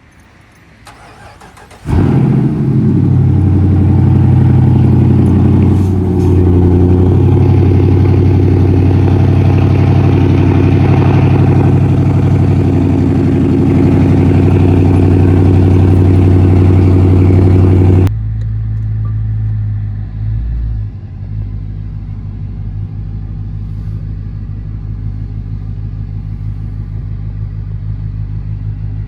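Dodge Charger R/T's V8 engine starting up about two seconds in and running loud at a steady high idle, then dropping abruptly to a quieter, lower idle for the last several seconds.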